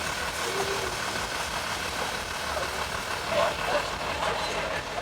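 Truck show ambience: a vehicle engine running steadily under faint background voices.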